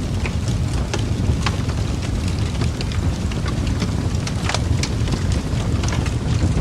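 Wood fire crackling: a steady low rumble of burning with scattered sharp pops and crackles, several each second.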